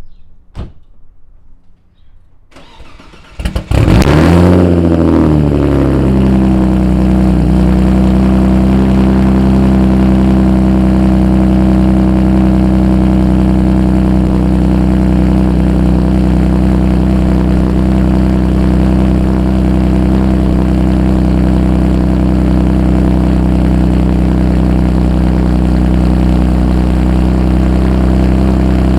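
Audi B5 S4's 2.7-litre twin-turbo V6 cold-started through a straight-piped exhaust with the resonator removed. After a few faint clicks it cranks and catches about three and a half seconds in, flares up and settles over a couple of seconds, then idles steadily and loudly.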